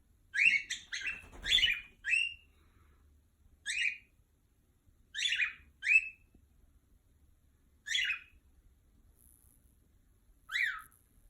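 Pet bird giving short, sharp, downward-sliding calls: several in quick succession at first, then single calls or pairs every couple of seconds. It is agitated, calling out as though at something that isn't there.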